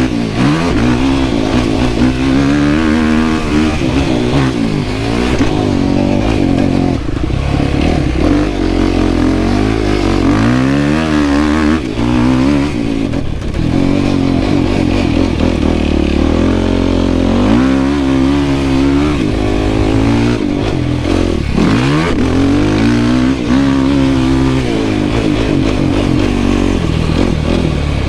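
Yamaha YFZ450R quad's single-cylinder four-stroke engine under hard riding, revving up and dropping off again and again, its pitch rising and falling every few seconds through the gears.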